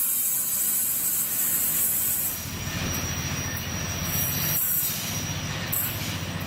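Train on the rails: a high hiss at first, then a low wheel-and-track rumble from about two seconds in, with a thin, steady high wheel squeal over it.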